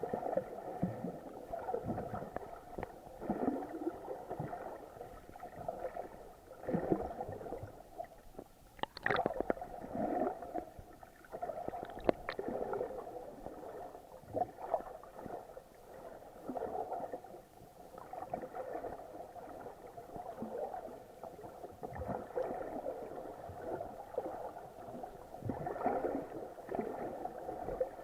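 Muffled underwater water sounds while snorkeling: gurgling and sloshing, with a few sharper clicks or knocks about nine and twelve seconds in.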